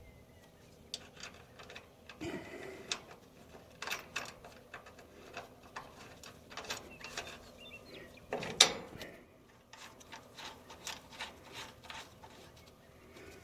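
Scattered small metal clicks and clinks of a bolt and nut being fitted by hand on a bearing mount, with one louder knock about eight and a half seconds in.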